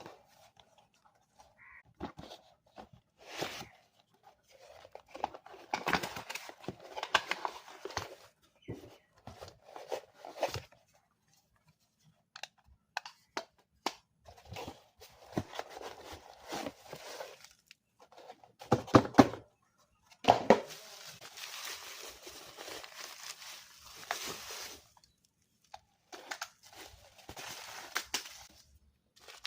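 Toy packaging being opened and handled: irregular tearing, crinkling and rustling with scattered clicks and knocks, the loudest a cluster of clunks a little past halfway.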